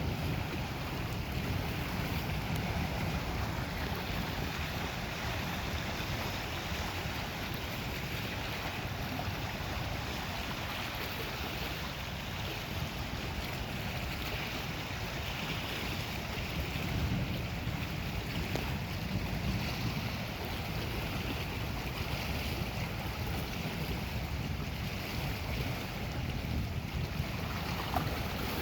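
Steady wind gusting on the microphone over the wash of Lake Superior waves.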